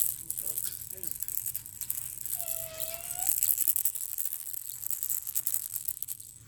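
Cockatoo cracking and chewing its food: a steady run of fast, dry crackling clicks, with a short whistle-like note about two and a half seconds in.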